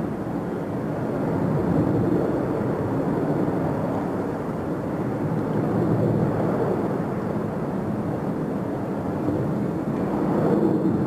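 Jet airliner engines running at takeoff thrust, a steady, loud rumbling roar that swells and eases slightly.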